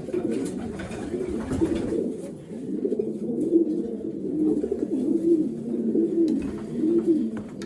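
Racing pigeons cooing in a loft, several birds' low coos overlapping without a break.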